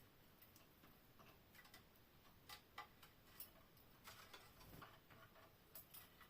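Faint, irregular clicks and taps, about a dozen scattered unevenly over a few seconds, the sharpest a little past the middle.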